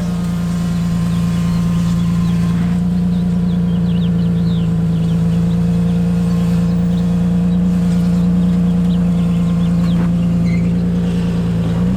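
Car engine running at a steady speed, a constant droning hum while driving.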